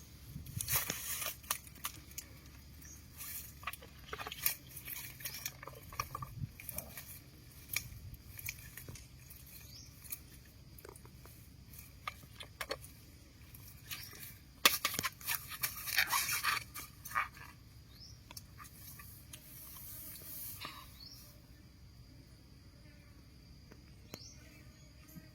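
Irregular close-up scraping, rustling and clicking of hands at work, in uneven bursts that are busiest near the start and a little past the middle, then thin out toward the end.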